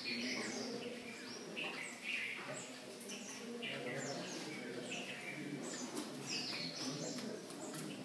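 Many small birds chirping together, a busy chorus of short falling chirps several times a second.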